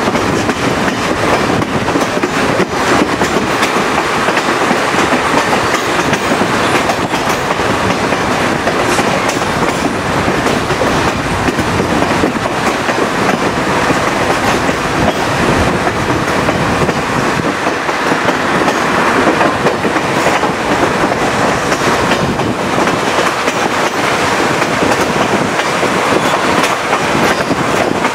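Chepe passenger train of the Chihuahua al Pacífico railway running along the line, heard from aboard the cars: a loud, steady rolling rumble and rush, with the wheels clicking over the rail joints.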